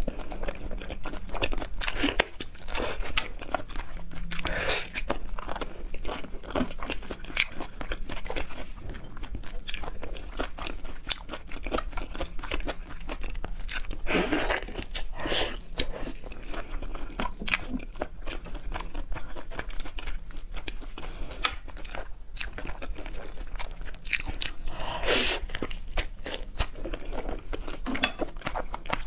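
Close-miked eating: crunchy bites and chewing, with a few louder crunching bites around the middle and near the end.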